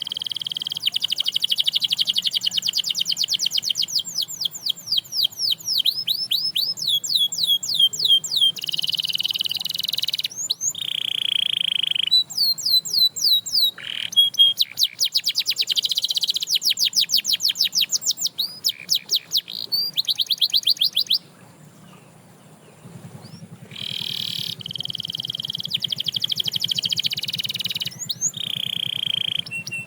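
Canary singing a long song of rapid trills and sustained rolls, with fast repeated sweeping notes, breaking off for about two seconds a little past two-thirds of the way through before resuming.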